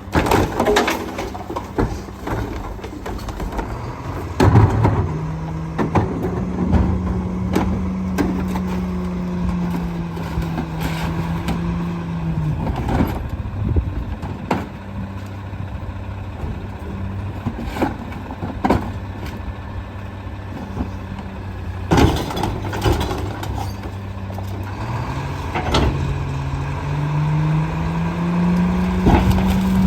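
Split-body garbage truck's diesel engine idling, then revving up and holding for several seconds before dropping back. It revs up again near the end, as it does when throttling up to run the packing hydraulics. Loud bangs and clanks from carts and the body come through several times.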